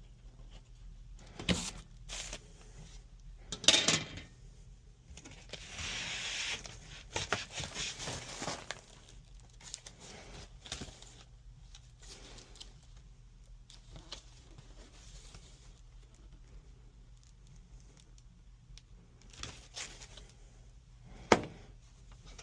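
Handling noises: a few sharp clicks and knocks, the loudest near the end, and about a second of tearing or rustling a quarter of the way in, over a faint low steady hum.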